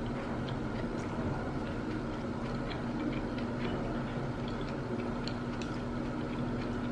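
Steady room hum with scattered light clicks and ticks.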